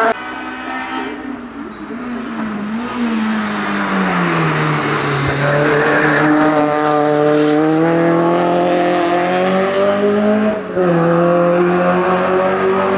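Race car engine on a hillclimb run. The revs fall away over the first few seconds, then climb steadily under throttle. A quick gearshift comes about two thirds of the way in, and the revs climb again after it.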